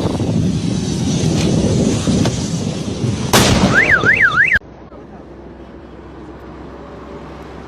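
Loud outdoor noise, then a sudden burst with an electronic siren or alarm warbling rapidly up and down about three times, cut off abruptly. Quieter steady background noise follows.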